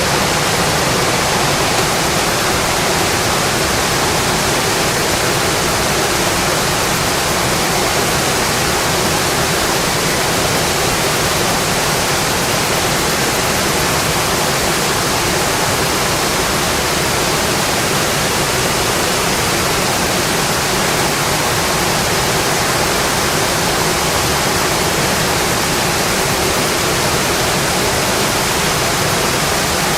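Steady rain on a windowpane: a dense, even hiss with no breaks or separate drops standing out.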